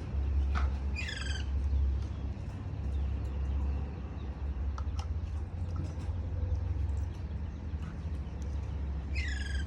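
A crow cawing twice, a short harsh call about a second in and another at the end, over a steady low rumble.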